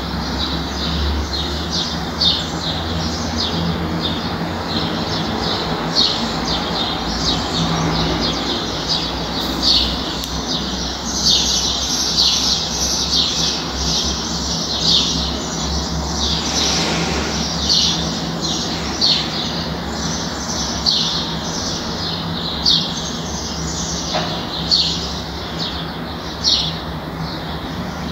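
Small birds chirping repeatedly, short high chirps coming one or two a second at irregular intervals, over a steady low background hum.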